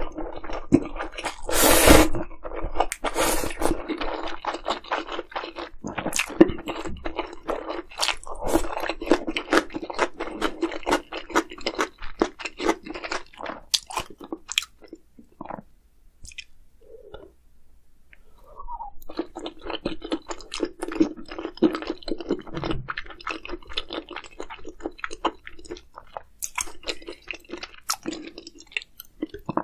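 Close-miked chewing and crunching of food, with a louder crunch about two seconds in; the chewing quiets for a few seconds past the middle, then resumes.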